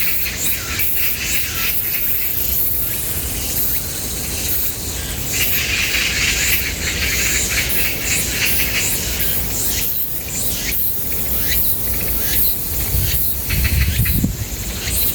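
A steady, high-pitched chorus of insects buzzing, with short bird calls mixed in. A low rumble comes in briefly near the end.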